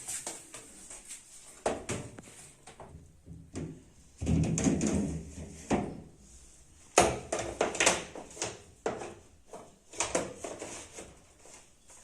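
Household handling sounds: irregular clunks and knocks of fridge drawers and containers being moved, with a longer scraping rumble about four seconds in.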